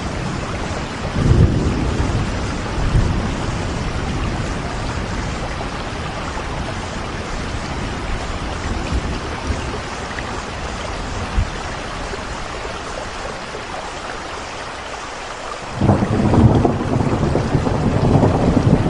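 Steady rain falling, with short low rumbles about one and three seconds in and a louder, sudden low rumble starting near the end.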